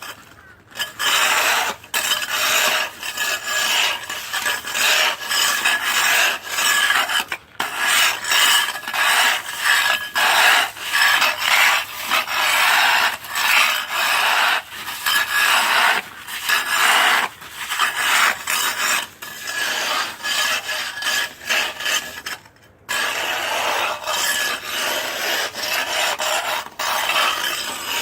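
Ice being scraped off a hard surface: a long run of rasping scraping strokes, roughly one a second, with a few short pauses.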